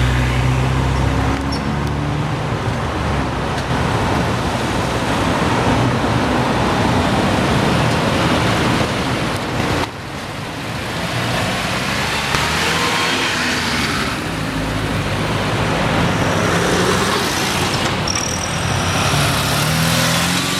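Road traffic with vehicle engines running and passing; a heavy engine hums low near the start, and the sound briefly drops about ten seconds in.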